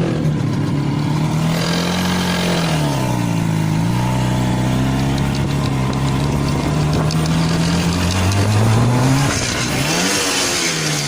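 IZh Jupiter-5 motorcycle's two-stroke twin-cylinder engine running under way. Its note drops about two seconds in and holds steady. It then rises toward the end, dips and climbs again.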